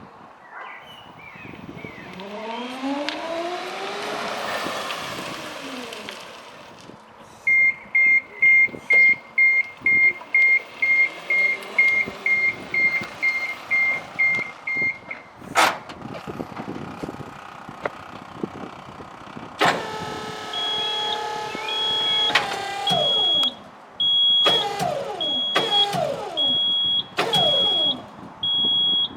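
Electric drive and equipment of a Piaggio Porter S90 Electric garbage truck: first an electric motor whine that rises and then falls in pitch. Then a high warning beeper sounds about twice a second for several seconds. From about two-thirds of the way in, an electric motor runs in repeated short bursts with its pitch falling at each stop, under a slower beep repeating every second or so, as the refuse body's equipment is worked.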